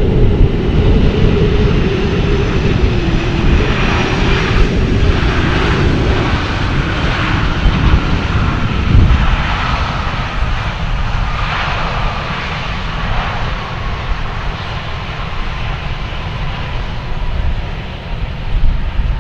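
Boeing 747 freighter's four jet engines at takeoff power, a loud rumble with a whine that slowly falls in pitch as the aircraft moves away. The sound gradually fades over the stretch.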